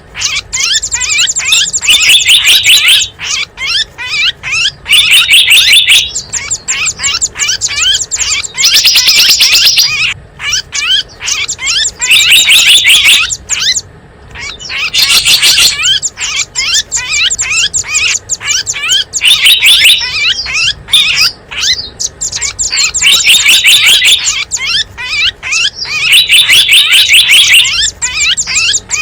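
Loud recorded calls of small songbirds, played as a lure for wild birds: rapid chirps and dense trills in bouts of about a second that repeat every few seconds in a loop.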